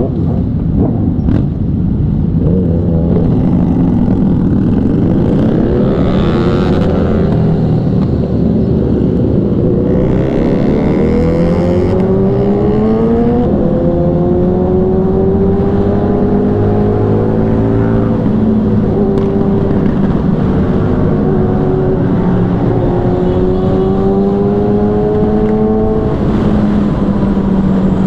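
Kawasaki ZX6R sport bike's inline-four engine with a Racefit Growler exhaust running hard at highway speed, its pitch climbing steadily from about eight seconds in to about thirteen, then holding high with small rises and dips.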